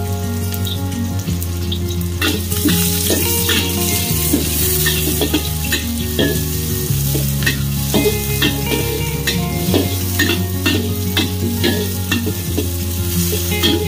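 Sliced onion sizzling in hot oil in a steel wok, with a metal wok spatula scraping and clinking against the pan as it is stirred. Steady low tones that change pitch every few seconds run underneath.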